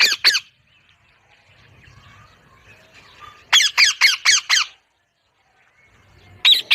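Parrot squawking in short, loud calls: a couple at the start, a quick run of about six around the middle, and two more near the end.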